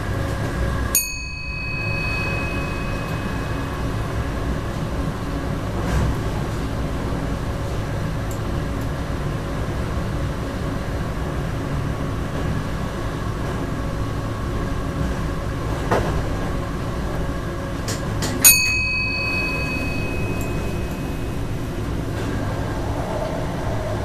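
Electric train running along the track, heard from the cab: a steady rumble of wheels on rails with a few faint ticks. Twice, about a second in and again some seventeen seconds later, a sharp click is followed by a short ringing ding that fades away.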